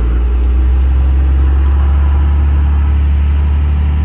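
Diesel pickup truck engine running under way from inside the cab: a loud, steady low drone that swells right at the start and holds.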